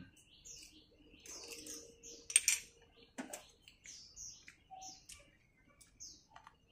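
Small birds chirping repeatedly in short, high calls. A sharp clink about two and a half seconds in, a spoon against a ceramic bowl, is the loudest sound, with a smaller knock just after.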